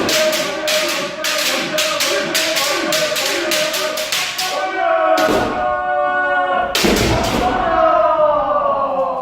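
Kendo sparring: long, held kiai shouts over rapid clacking of bamboo shinai, about three sharp clacks a second. Near the end come a few harder strikes and a long shout that falls in pitch.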